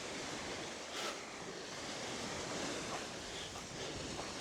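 Surf washing onto a sandy beach, a steady low hiss of small waves.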